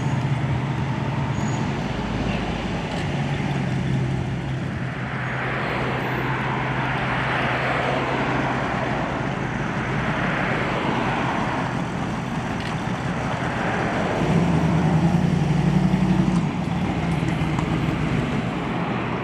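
Car engines running at low speed, a steady low engine hum with a noisy rush swelling and fading in the middle, and one engine growing louder for a couple of seconds about fifteen seconds in.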